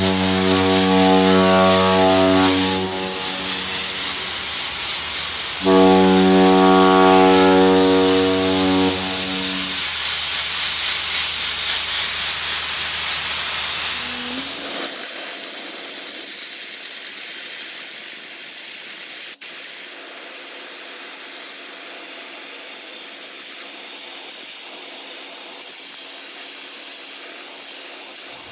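Abrasive blasting nozzle hissing loudly and steadily as it blasts a metal hull, with a steady droning hum under it for the first ten seconds that breaks off briefly and comes back; from about halfway on only the hiss remains.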